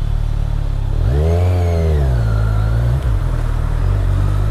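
Kawasaki Z1000 inline-four engine on its stock exhaust running steadily, with one rise in revs about a second in that falls back after a couple of seconds.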